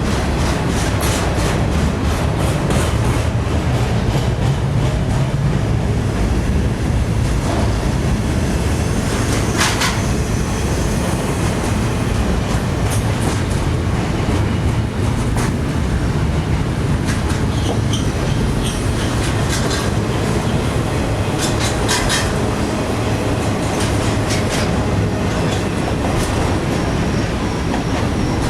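Norfolk Southern freight train rolling past close by: a steady rumble of the cars with irregular clacks as the wheels pass over rail joints.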